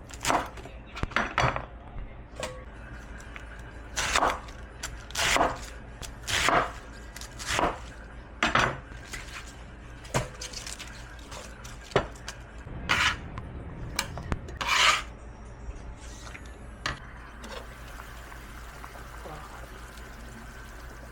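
Kitchen utensils and dishes clattering and scraping during food preparation. A dozen or so separate knocks and scrapes come about one a second and thin out in the last few seconds.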